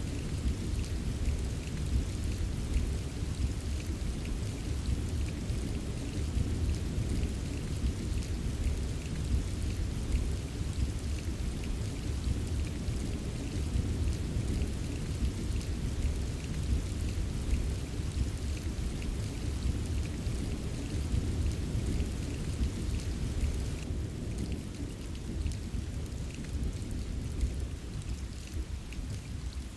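Steady rain, a deep even wash with light patter of drops on top, holding level throughout.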